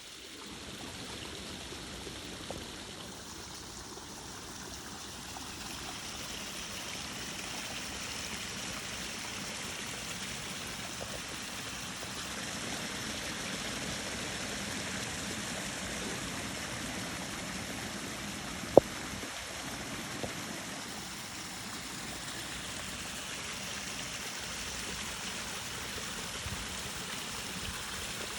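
Backyard pond overflowing after a rain storm, water running steadily over its edge like a small waterfall. A single sharp click about two-thirds of the way through.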